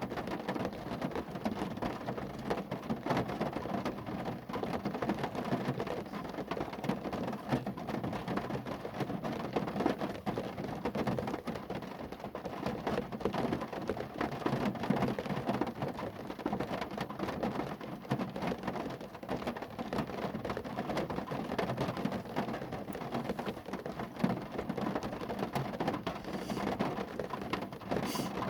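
Steady rain falling on a car: a dense, even patter of countless drops hitting the car's body.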